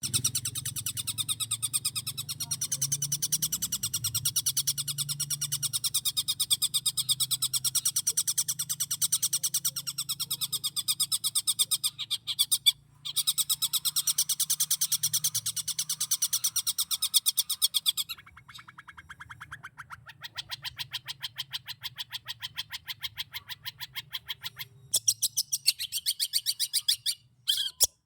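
Long-tailed shrike (cendet) singing a fast, unbroken stream of high, rapidly repeated notes made of mimicked calls, including kingfisher (tengkek) and tree sparrow (gereja) imitations. The song breaks briefly partway through and turns softer about two-thirds in, then ends in a few separate loud chirps.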